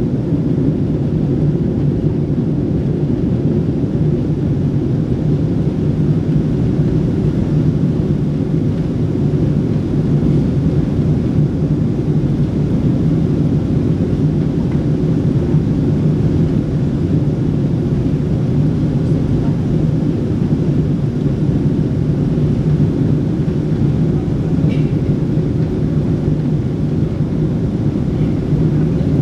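Steady, loud low rumble of a Boeing 777-300's engines and airflow heard inside the passenger cabin.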